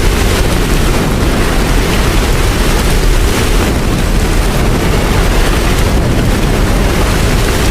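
Steady heavy rain noise with a deep low rumble underneath, even throughout with no distinct strikes or chimes.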